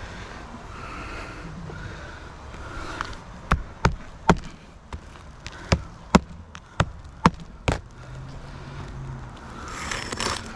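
About eight sharp knocks of tools striking on the roof in quick, uneven succession, over a steady outdoor background hiss.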